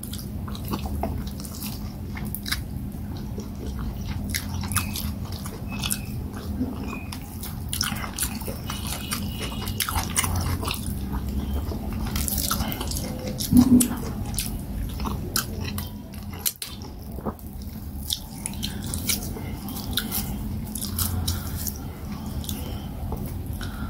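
Close-miked chewing of soft fufu and peanut soup, with many small wet mouth clicks and smacks. A louder short mouth sound comes about 14 seconds in.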